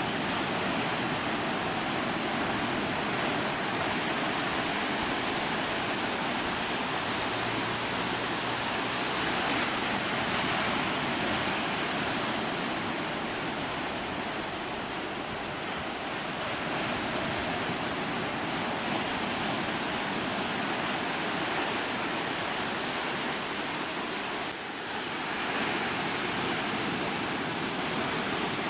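Ocean surf washing onto a sandy beach: a steady rush of breaking waves that swells a little louder now and then.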